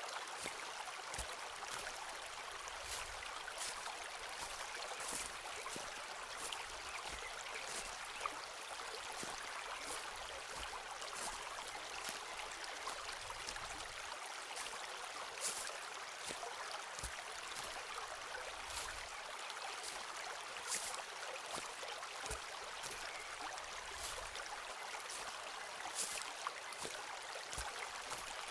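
Footsteps walking on the forest floor, a run of short, irregular crunches, over a steady rushing background.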